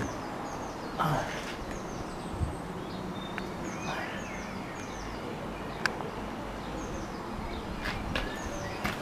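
Small birds chirping and twittering repeatedly, with a few scattered sharp clicks and knocks.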